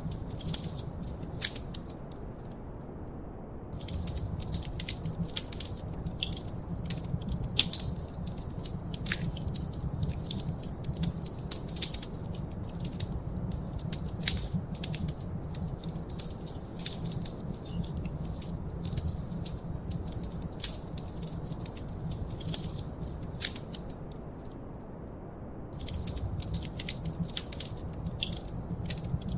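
Wood fire in a fireplace crackling, with dense irregular pops and snaps over a low rumble. The crackling stops briefly twice, once about two and a half seconds in and again near the end, leaving only the rumble.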